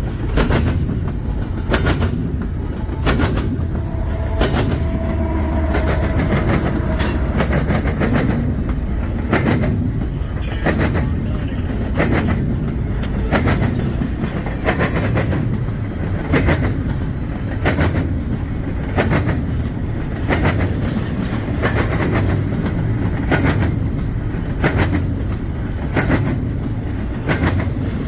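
Long CSX freight train rolling past, its wheels clicking over rail joints in a steady repeating clickety-clack over a continuous low rumble.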